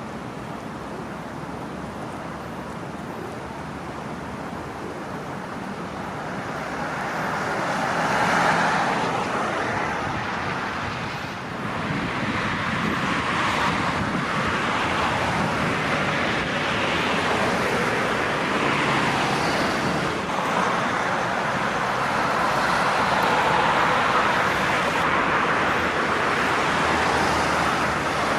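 Road traffic noise. It swells as a vehicle passes about eight seconds in, then stays louder from about twelve seconds on.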